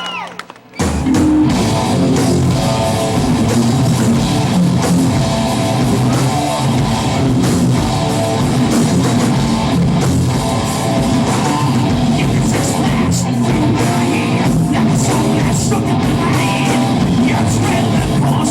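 Heavy metal band playing live: electric guitars, bass and drum kit kick in together under a second in, after a brief break, and keep going loud.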